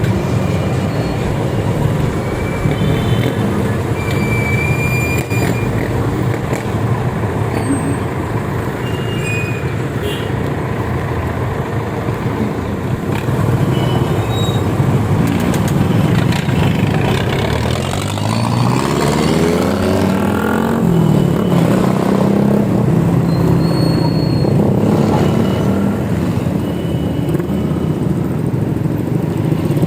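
Road traffic and wind noise heard while riding, a steady rumble throughout. About two-thirds of the way through, a motor vehicle's engine rises in pitch as it speeds up.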